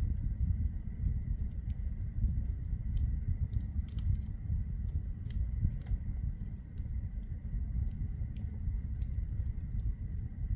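Wood fire burning in a fireplace: irregular small crackles and pops from the burning logs over a steady low rumble of the flames.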